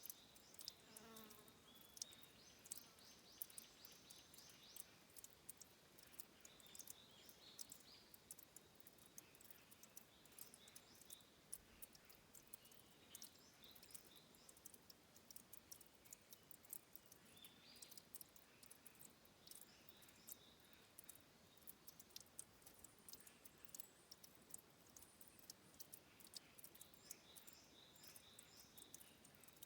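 Faint water dripping and trickling at a stream's headwater spring, many small irregular drips, with high chirping calls from small creatures that come and go, loudest a few seconds in and near the end.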